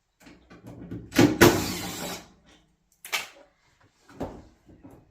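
Dryer cabinet panels being handled during disassembly: a loud scraping slide about a second in, then a sharp click and a dull knock.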